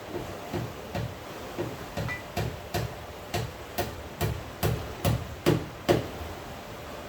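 A run of about fourteen short knocks, two to three a second, each a dull thud with a sharp click, growing louder and stopping about six seconds in.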